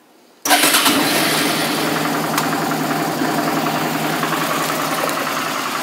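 The 2004 Suzuki V-Strom 650's V-twin engine fires right up about half a second in and then idles steadily. It runs well despite high mileage.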